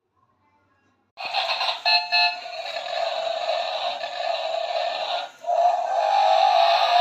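Tinny electronic music from a toy's small speaker, with no bass, starting suddenly about a second in and breaking off briefly near the middle before resuming.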